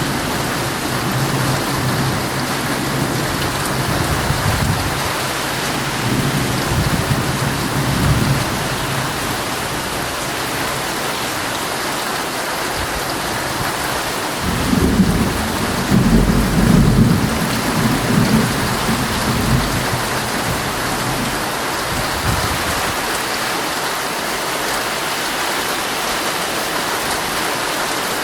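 Heavy rain pattering steadily on a tent, with rolling thunder rumbling low in the first few seconds and swelling again in the middle before fading.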